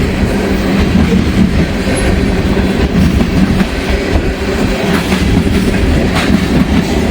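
Long Norfolk Southern freight train's cars rolling steadily past at close range, with strong wind blowing across the microphone.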